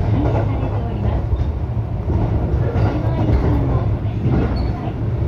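Local electric train running along the line, heard from inside the carriage: a steady low rumble of wheels on track and running gear.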